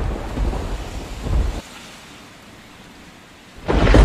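Storm sound effect: a low thunder rumble over rain. About one and a half seconds in it cuts abruptly to a quieter rain hiss, and the loud rumble comes back near the end.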